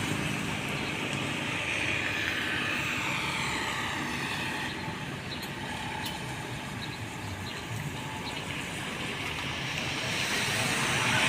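Road traffic going by: engine and tyre noise of passing vehicles, heavy trucks among them. It fades a little midway and grows louder near the end as another vehicle approaches.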